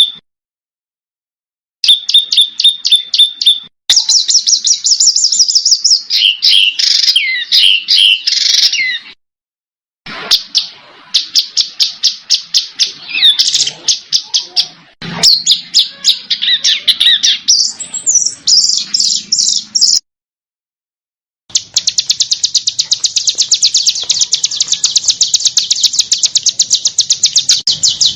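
Edited songbird recordings: fast runs of high, evenly repeated chirps alternating with harsh, scratchy warbled phrases. The clips are spliced together with abrupt cuts to dead silence, twice near the start and once about two-thirds of the way through.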